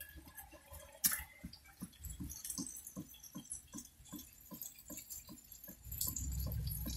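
Rainwater dripping, the drops tapping on a hard surface at about two or three a second. There is a sharp click about a second in, and a low rumble comes in near the end.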